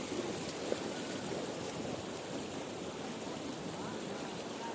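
Floodwater flowing with a steady rushing noise.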